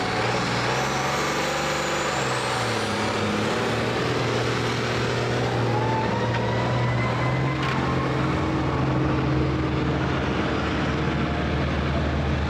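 Competition pulling tractor's engine running, its pitch shifting up and down, with a faint rising whine about halfway through.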